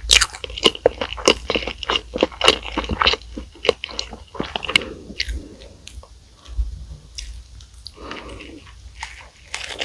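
Close-miked eating of fast food: many crisp crunching bites in the first half, then softer, slower chewing.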